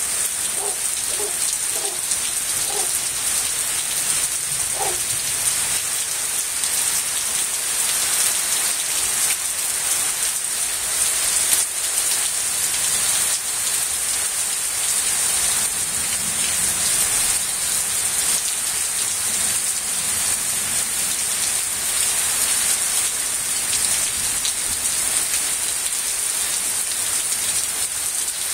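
Steady rain falling and pattering on surfaces, an even hiss throughout.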